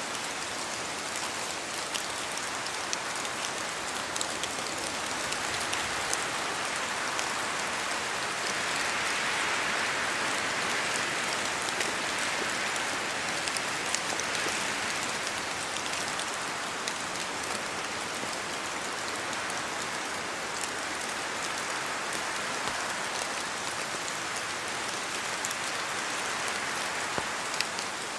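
Steady rain pattering on forest foliage, with scattered louder drops ticking close by, and a gust of wind swelling through the trees and easing off.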